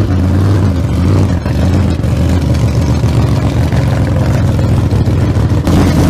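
A loud engine running with a steady, full sound that cuts off abruptly at the very end.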